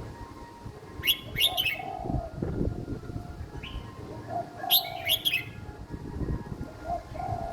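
Young red-whiskered bulbul singing short, quick, high whistled phrases, two inside a few seconds, each paired with a lower, steadier note.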